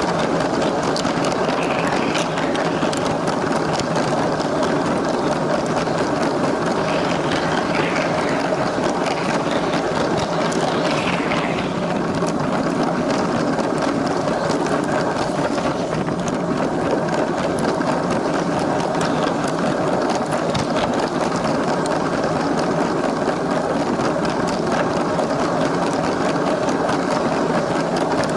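LEGO train's small electric motor running steadily, with its wheels rattling along the plastic track.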